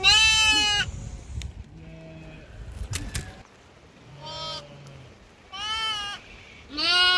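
Sheep bleating repeatedly, about five calls of varying pitch from several animals in the flock; the loudest calls come at the very start and near the end.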